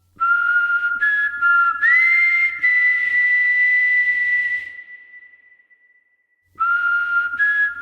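Background music of a whistle-like tune: long held pure notes, two at a time, one sliding up about two seconds in. It fades out about halfway through and starts again near the end.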